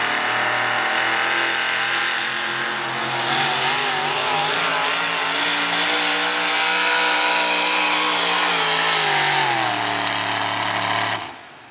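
Modified pulling truck's engine running at high revs under load, its pitch wavering and climbing, then dropping near the end as it backs off. The sound cuts off abruptly just before the end.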